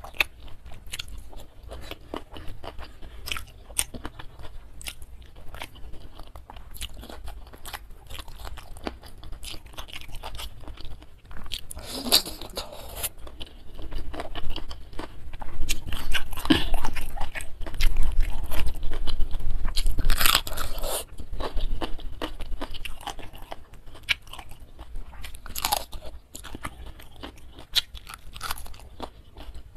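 Close-miked wet chewing and crunching of food eaten by hand, including a fresh green chili, with many small mouth clicks and louder crunchy bites about twelve seconds in, again for several seconds from about sixteen seconds, and once more near the end.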